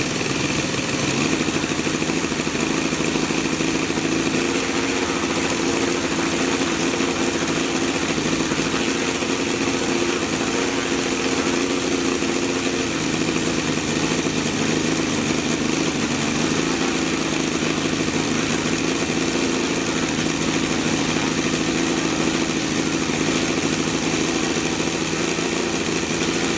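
Saito FG-60R3 60cc three-cylinder four-stroke gasoline radial model-aircraft engine running steadily with its propeller, at about 3,000 rpm shortly after starting. Its pitch shifts slightly about halfway through.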